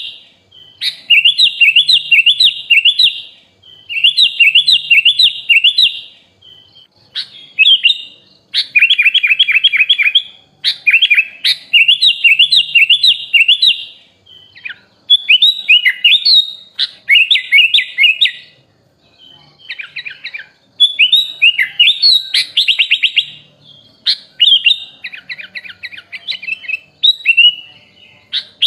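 Sooty-headed bulbul (kutilang) singing in a busy chattering series of phrases. Each phrase is one to two seconds of rapid, repeated chirping notes, with short pauses between phrases.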